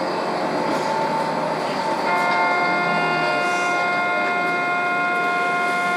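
Train running, heard from on board as a steady rumble and rush. About two seconds in, a steady high whine of several even tones sets in and holds.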